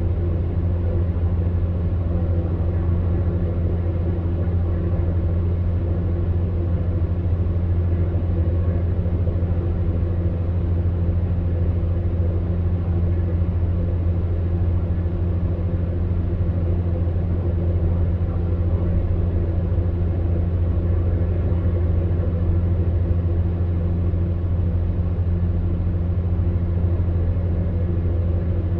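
Electric fan heater running steadily: a constant low hum under an even rush of blown air, with no change in speed or pitch.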